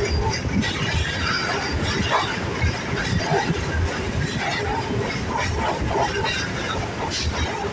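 Suburban electric train running along the track, heard from an open door of one of its coaches: a steady rumble of wheels on rail with frequent rattling clanks.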